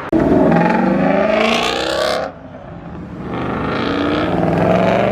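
A car engine revved hard twice: each time the pitch climbs for about two seconds and then drops off suddenly as the throttle is released.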